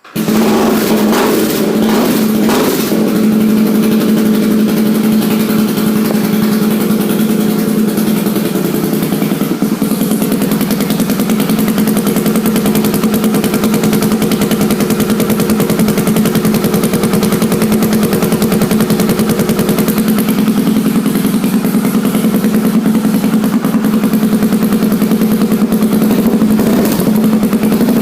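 A 1982 Honda XR500R's single-cylinder four-stroke engine firing up, a little unevenly for the first couple of seconds, then running at a steady idle. It is really loud because the exhaust baffle has been taken out, leaving it effectively straight-piped.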